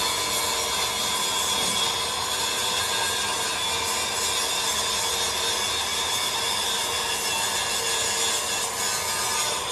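A metalworking machine running steadily: a continuous hiss of cutting or grinding with several constant high whining tones.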